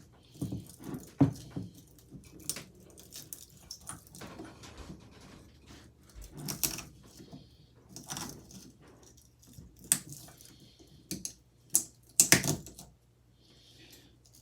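Metal parts of a ceiling fan motor and hand tools being handled while copper winding is stripped out: scattered clinks, knocks and short scrapes, the loudest about ten and twelve seconds in, over a faint steady hum.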